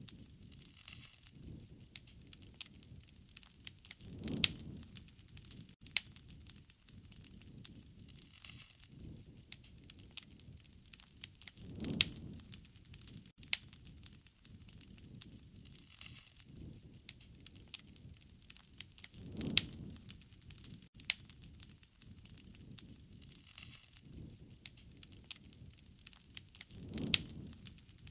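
Wood fire crackling, with frequent sharp snaps and pops over a low rumble that swells about every seven to eight seconds.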